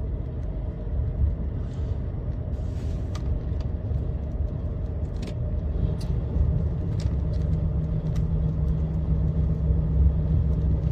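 Diesel truck's engine and road rumble heard inside the cab while driving, with a steadier engine hum coming up about two-thirds of the way in.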